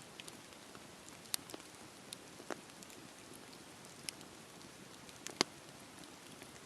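Campfire burning: a steady soft hiss with scattered crackles and pops at uneven intervals, the loudest pop about five seconds in.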